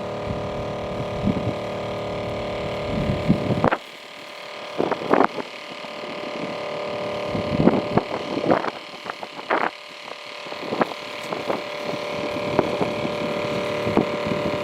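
Weed sprayer running: a steady motor hum that drops suddenly about four seconds in and slowly builds back, with several short, sharp sounds from the spraying scattered through it.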